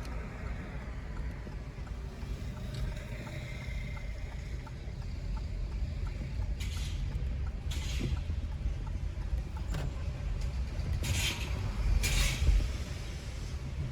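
Car driving through city streets: a steady low road and engine rumble, with a faint regular ticking. Other vehicles pass with short whooshes, the loudest a little after 12 seconds in.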